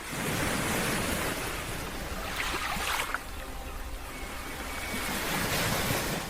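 Ocean waves breaking and washing on a beach: a steady rush of surf that swells and eases, dipping a little about three seconds in.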